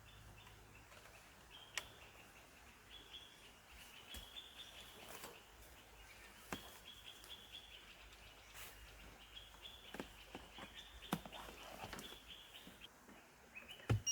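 Faint, steady chirping trills from night insects, typical of crickets, repeating in short phrases, with scattered clicks and knocks from gear being handled. A loud click and a short electronic beep come right at the end.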